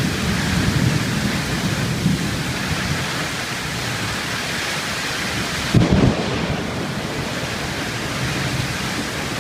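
Heavy rain pouring in a thunderstorm, with thunder rumbling low beneath it after a close lightning strike. About six seconds in, a sudden loud low thump.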